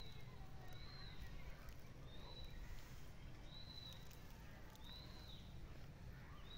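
A bird calling: one short, arched, high note repeated six times a little over a second apart, faint, over a low steady rumble.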